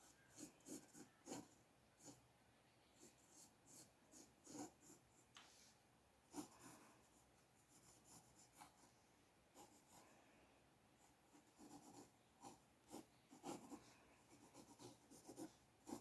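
Faint, short scratching strokes of a drawing tool sketching on paper, coming in quick irregular runs with brief pauses between them.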